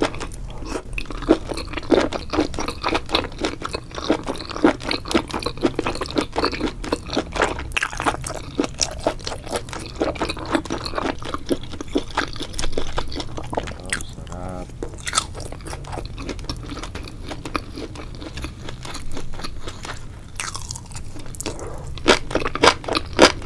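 A person chewing a mouthful of spicy braised octopus: a steady run of wet crunching and clicking, a little louder near the end.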